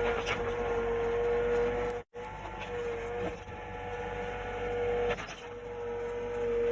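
A machine's motor running steadily with a constant whining tone, briefly cut off about two seconds in.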